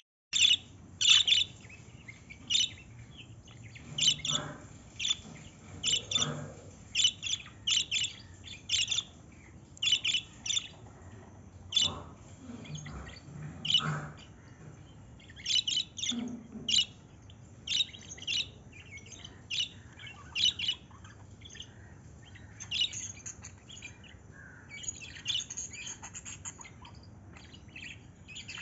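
A small bird chirping over and over in short, sharp, irregularly spaced chirps, as when a bird is fighting its own reflection, with a few faint dull knocks among them.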